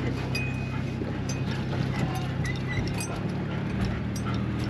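Old Mitsubishi Montero 4x4 running with a steady low engine drone, with frequent light rattles and clinks throughout.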